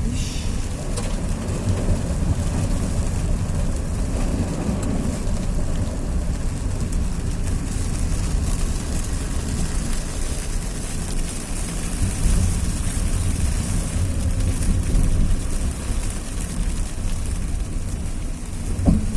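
Steady rushing roar of heavy muddy water and rain pouring down, with a deep low rumble throughout. A brief louder sound comes near the end.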